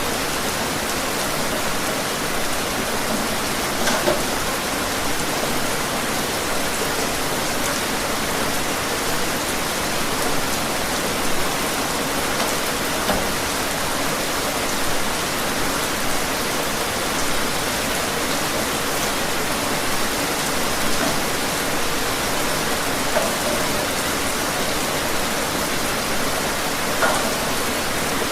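Steady rain falling, an even hiss with occasional louder individual drops.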